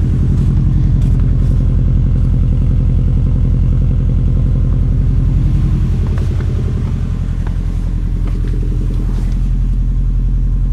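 2002 Subaru Impreza WRX's turbocharged 2.0-litre flat-four running steadily at idle from cold, with an even, rhythmic pulsing knock that the owner takes for piston slap.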